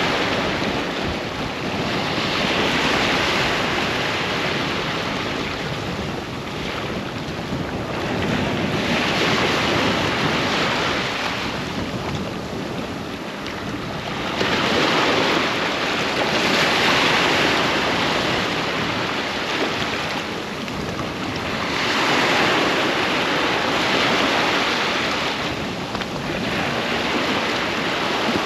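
Sea waves breaking and washing up a sandy beach, the surf swelling and ebbing every few seconds, with wind buffeting the microphone.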